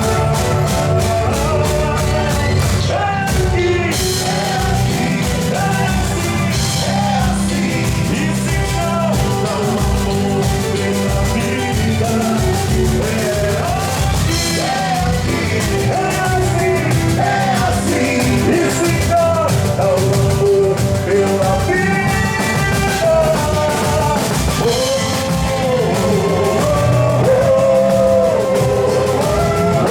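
Live boi-bumbá toada band playing with a steady drum beat and a sung melody.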